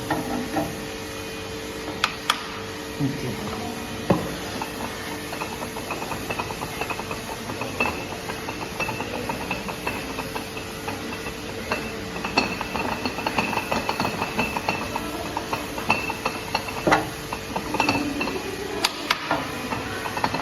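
Light hammer taps on the steel work setup clamped to a milling machine table, a scatter of small metallic knocks with a few harder strikes, knocking it level after a dial indicator showed it was tilted. A faint steady hum runs underneath.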